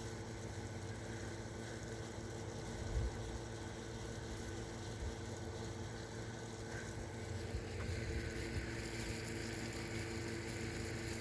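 Air conditioner running with a steady hum, with wind buffeting the microphone in low rumbles, one louder gust about three seconds in. A higher hiss joins about seven and a half seconds in.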